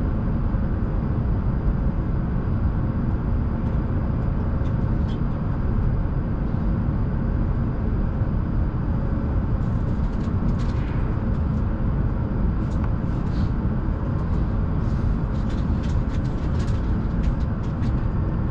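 Shinkansen bullet train running, a steady low rumble heard inside the passenger cabin, with faint light ticks through the second half.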